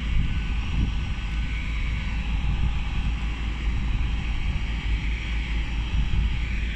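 Great Western Railway Intercity Express Train (Class 800-series) drawing slowly into the platform, a steady low rumble mixed with wind on the microphone.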